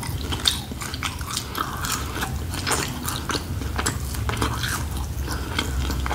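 A person chewing and biting into grilled barbecue chicken, with many short clicks and smacks of the mouth.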